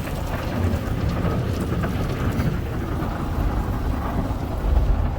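Water jets of an in-bay automatic car wash spraying onto the car, heard from inside the cabin as a steady rain-like hiss over a low rumble that grows louder near the end.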